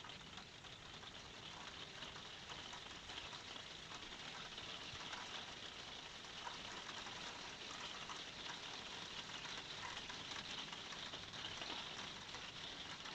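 Light rain falling steadily, a faint, even fine pattering hiss.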